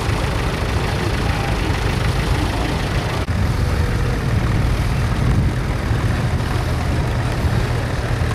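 Vintage tractor engine running steadily with a low, heavy note, with a brief break in the sound about three seconds in.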